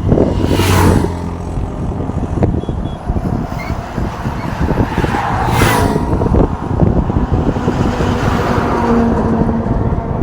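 Road traffic: trucks passing close by, two whooshing past about five seconds apart over a constant low engine and tyre rumble, with wind buffeting the microphone.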